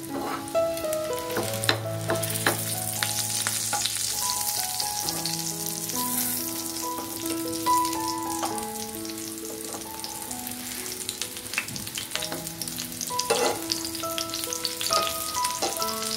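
Chicken mince kebabs shallow-frying in sunflower oil in a non-stick pan over a low flame: a steady sizzle, with occasional taps and scrapes as a metal spatula turns them. A soft melody of held notes plays underneath.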